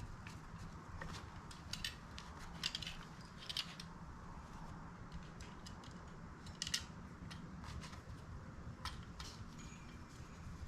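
Light clicks and scrapes of small metal parts being handled and pressed together as the reproduction face of a heater control unit is worked into place, a poor fit with its holes out of line; a few sharper clicks stand out, over a faint steady hum.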